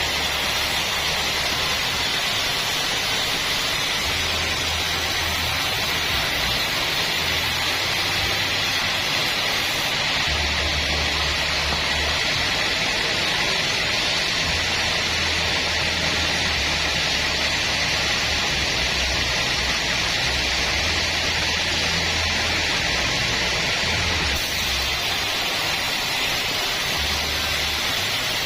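Band sawmill running with a steady, even hiss, and a low hum that comes and goes.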